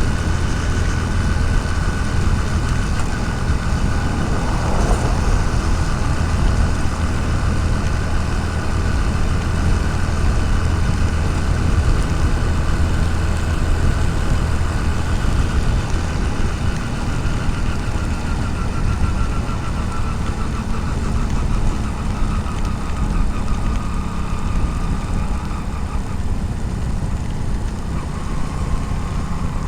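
Motorcycle engine running steadily at road speed, with a continuous haze of road and wind noise, heard from a helmet-mounted camera.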